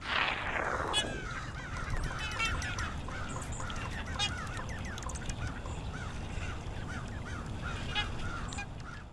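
A flock of birds calling: many short, arched calls overlapping and repeating, after a whoosh at the start.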